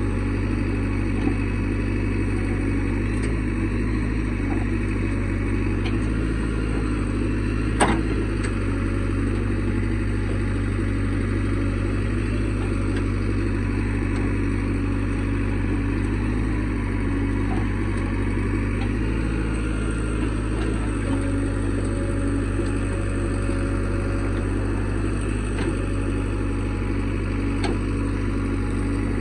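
Heavy diesel machinery running steadily, a deep continuous engine drone, with one sharp knock about eight seconds in.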